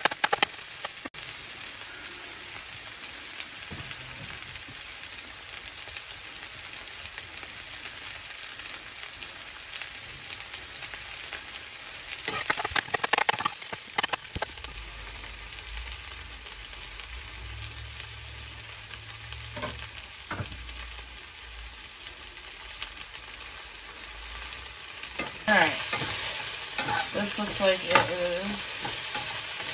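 Chopped onion and garlic sizzling steadily in hot olive oil in a pan. A utensil stirs through the pan briefly about twelve seconds in, and again more loudly over the last few seconds.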